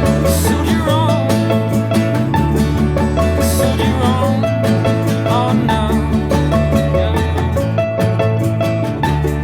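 Live band playing an instrumental passage of a pop-folk song: a steady bass line and beat, plucked strings, and a lead melody wavering with vibrato above.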